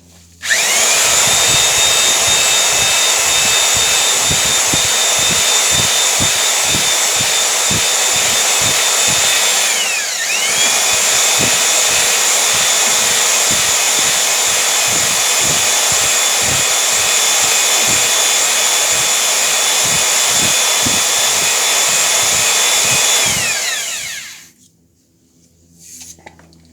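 Electric drill spinning a cylinder hone in the bore of a 1977 MGB engine block, the bore kept wet with PB Blaster: a steady high whine over an uneven low rattle. The whine dips and spins back up about ten seconds in, then winds down near the end.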